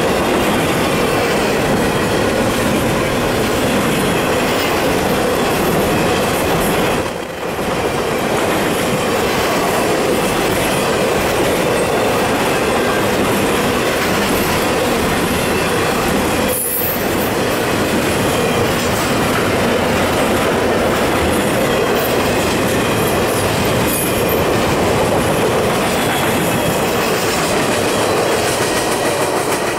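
Double-stack intermodal well cars loaded with containers rolling past at speed: a loud, steady rumble of steel wheels on rail that dips briefly twice and starts to fade near the end as the tail of the train goes by.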